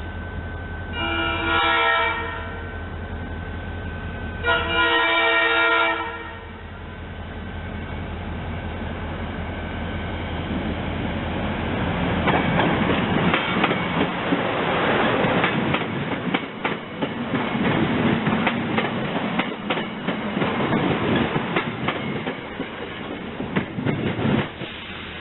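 A train horn sounds two blasts of a second or so each. A few seconds later a train rolls past, wheels clicking over the rail joints, loudest through the second half.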